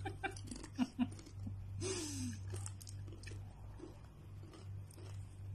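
Doritos tortilla chips being chewed close to the microphone: scattered short crunches, over a steady low hum.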